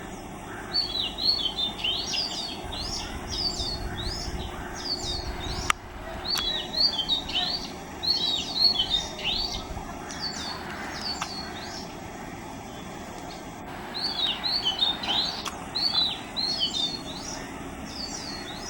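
Oriental magpie-robin singing: three runs of quick, varied whistled notes with short pauses between them, over steady low background noise. A single sharp click sounds about halfway through.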